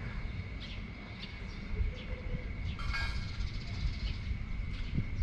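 Evening wind gusting on the microphone as a low, uneven rumble, over a steady high-pitched whine and scattered short chirps.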